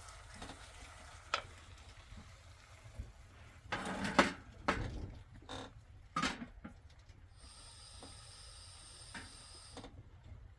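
Cooking pot and utensils clattering: scattered knocks and a louder scrape about four seconds in, as food is stirred in a pot. A faint steady high tone runs through the latter part.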